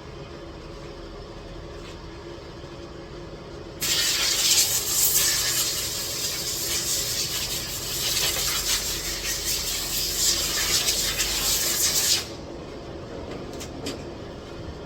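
Loud, steady hiss of a spray, starting suddenly about four seconds in and cutting off about eight seconds later, over a steady low hum.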